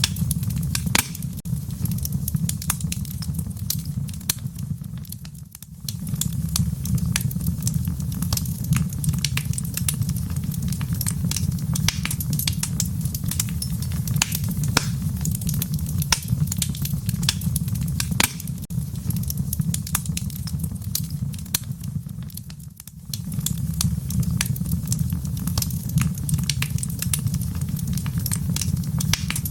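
Wood fire in a fireplace crackling and popping over a steady low rumble of burning. The sound briefly drops away twice, about five seconds in and again near twenty-three seconds.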